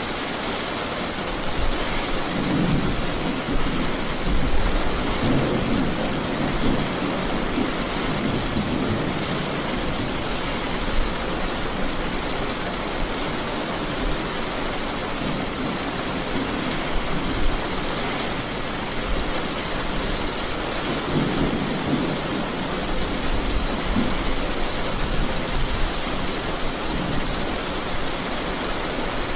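Steady rain with rolling thunder: a long low rumble builds about two seconds in and lasts several seconds, and a second rumble comes about two-thirds of the way through.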